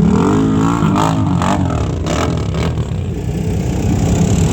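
A motor vehicle engine running, its pitch rising and falling in the first second or so, with a few clattering knocks between about one and three seconds in.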